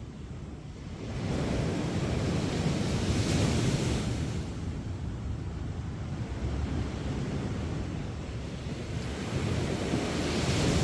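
Sea surf breaking and washing up the shore, swelling about a second in and again near the end.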